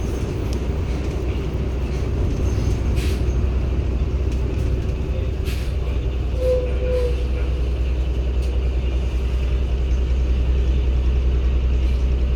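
Cummins ISB Euro 6 diesel engine of a 2016 Hyundai New BS090 city bus running under way, heard inside the bus as a steady low drone. The drone grows slightly louder from about a third of the way in, with a few brief rattles or hisses over it.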